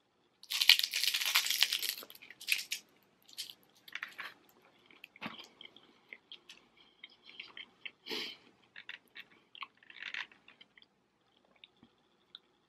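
Close-up bite into a crispy deep-fried chicken wonton, a loud crunch lasting about a second and a half, followed by chewing with scattered smaller crunches and a stronger crunch about eight seconds in.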